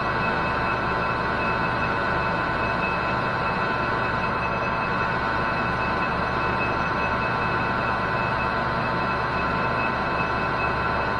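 Metal lathe running steadily, cutting a new washer from bar stock, with a constant whine and rumble from its drive.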